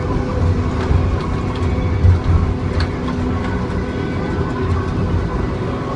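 John Deere 2954D log loader's diesel engine running steadily under working load, with a few short knocks and clanks, the loudest about two seconds in.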